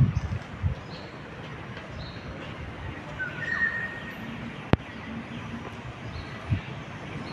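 Short bird chirps recurring over a steady outdoor background rumble, with one clearer chirp a little after the middle. A single sharp click comes about two-thirds of the way through, and there are a few low thumps at the start and near the end.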